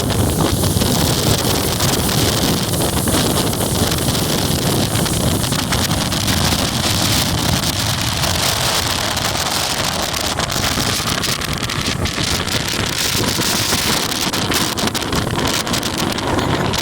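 Strong typhoon wind blowing hard and buffeting the microphone: a loud, steady rush of noise.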